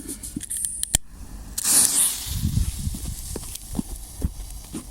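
Small homemade firework burning off: a sharp click about a second in, then a brief hiss, followed by a few faint ticks.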